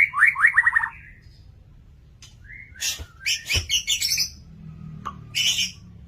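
A white-rumped shama (murai batu) singing hard: a fast run of down-slurred whistled notes at the start, a short pause, then bursts of higher, scratchier notes, one of them near the end.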